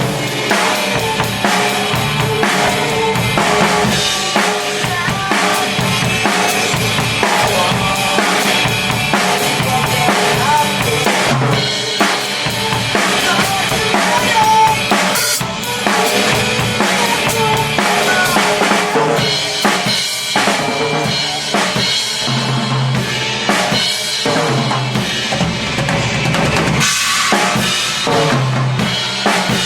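Drum kit played along with a rock backing track, with steady kick and snare hits over the song.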